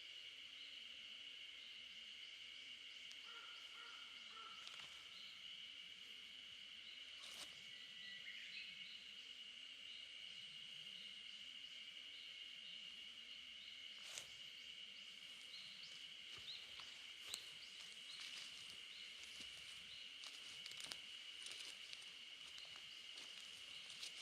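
Faint steady high-pitched drone of insects in a rural outdoor soundscape, with a few scattered sharp clicks and faint short chirps.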